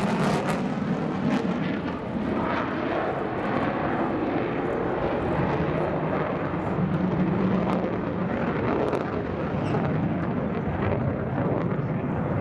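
Jet engine noise from the JASDF F-15 fighters of a flying display: a steady rushing noise that holds its level throughout.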